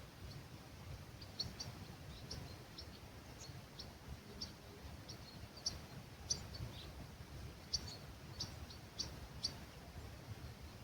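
Small birds giving short, high chirps every half second or so over a faint low rumble of breeze.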